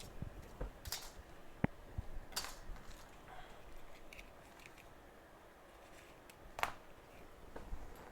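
Scattered light clicks and taps of small metal tools being handled on a micro-soldering bench, a few sharper ones standing out.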